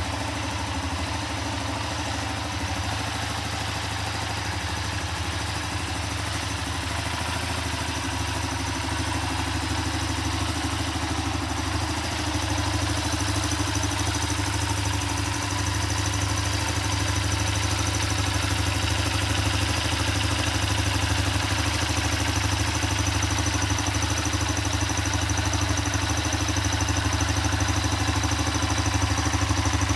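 Honda FTR223's air-cooled single-cylinder four-stroke engine idling steadily, growing gradually a little louder.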